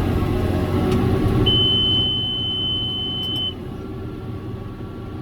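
A single steady high-pitched beep lasting about two seconds from the round baler's in-cab monitor, over the John Deere 7410 tractor's diesel engine running. The engine sound drops noticeably just after the beep ends.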